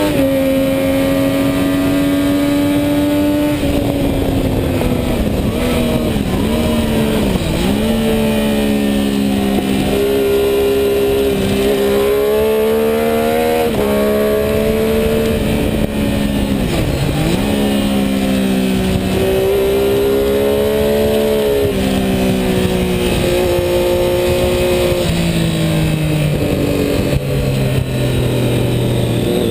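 Sport motorcycle engine running hard around a race track, heard on board with a steady rush of wind. The engine note holds level for a few seconds at a time and shifts pitch with gear changes. It dips sharply twice before climbing again, and steps down in pitch several times near the end.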